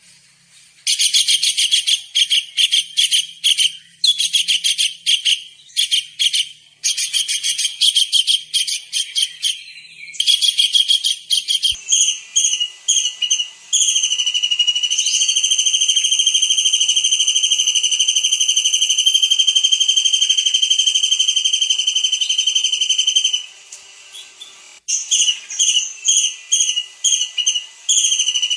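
Tengkek udang (kingfisher) calling: fast trills of short, high, piercing notes for the first dozen seconds, then one long steady high whistle held for nearly ten seconds, then quick repeated notes again near the end.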